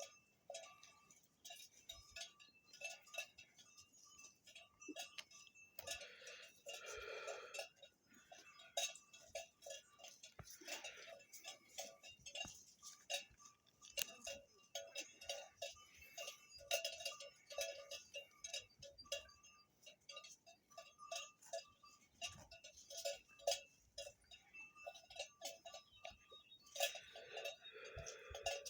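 Livestock bells clanking and jingling irregularly as the animals move. An animal call is heard about seven seconds in and another near the end.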